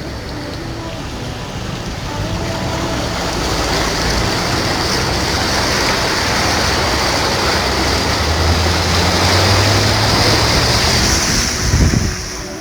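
Rushing floodwater and traffic in a flooded street: a steady hiss of water and spray that grows louder over the first few seconds, with a low engine hum from about eight to eleven seconds in.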